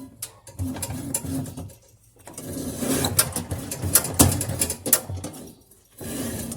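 Metal knocking, clattering and scraping in irregular bursts as a washing machine's transmission is worked loose and pulled out, with a short pause about two seconds in.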